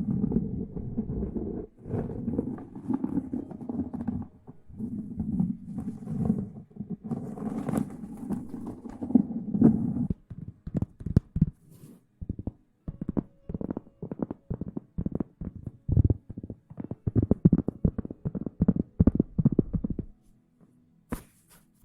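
Close-miked ASMR rustling: about ten seconds of dense, muffled rubbing, then a run of many quick soft taps and crackles that stops briefly near the end.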